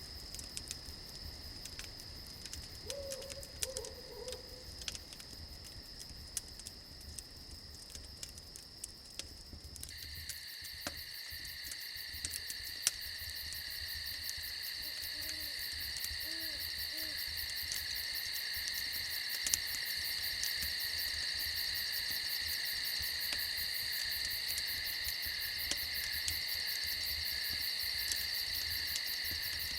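Night ambience: a steady chorus of crickets and other insects over scattered crackles of a campfire. The insect chorus steps up about ten seconds in and grows louder. An owl hoots softly a few times, once a few seconds in and again around the middle.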